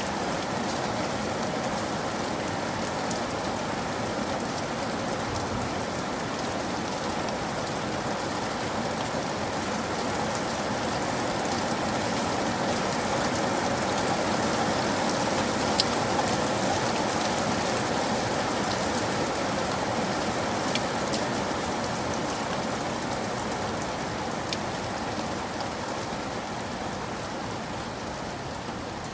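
Steady heavy rain falling, with many separate drops ticking sharply on a surface. It swells a little around the middle and eases slightly near the end.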